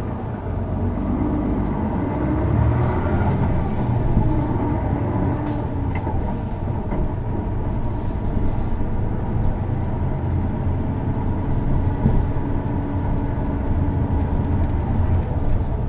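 Isuzu Erga city bus's 6HK1 inline-six diesel engine pulling the bus along, heard from inside the passenger cabin. It gets louder over the first couple of seconds, then runs steadily with road noise and a few light rattles. This particular bus is known for a distinctive abnormal engine noise.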